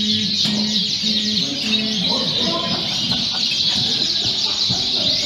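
Dense chorus of many Fife canaries singing at once, a continuous mass of overlapping high chirps and trills.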